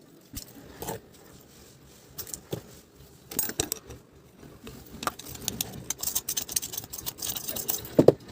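Irregular clicks, taps and rattles of small hard parts and tools being handled, growing busier in the second half, with a louder knock near the end.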